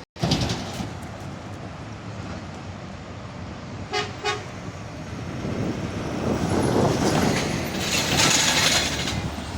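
Diesel locomotive horn giving two short toots about four seconds in, over a steady low engine rumble. A rising rush of noise then builds and is loudest near the end.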